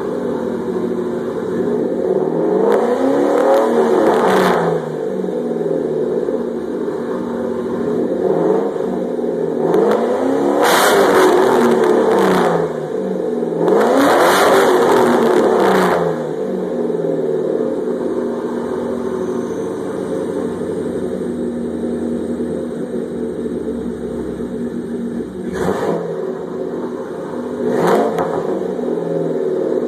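1994 Ford Thunderbird's 4.6-litre two-valve V8 running loud through Mac mufflers, JBA shorty headers and no catalytic converters. It settles at a steady low rumble between revs: three longer rev-ups that climb and fall back, then two quick throttle blips near the end.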